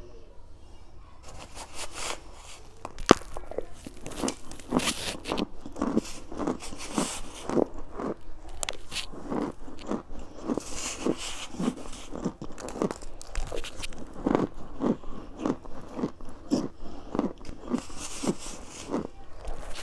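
Chunks of cornstarch crunching as they are bitten and chewed, about two crunches a second. There is a single sharp click about three seconds in.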